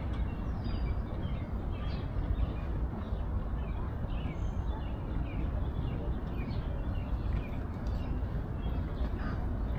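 Birds chirping in short, frequent high calls over a steady low rumble of outdoor noise.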